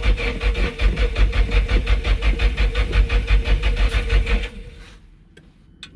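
Nissan SR20DET four-cylinder turbo engine being cranked on the starter motor with an even rhythmic chug, trying to fire but not catching; the cranking stops about four and a half seconds in. A cam angle sensor set out of line is the suspected cause of the failure to start.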